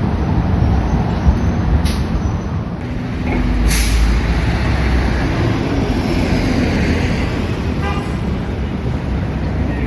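City street traffic: steady road noise with a low vehicle rumble swelling about three seconds in, and a short sharp hiss just before four seconds.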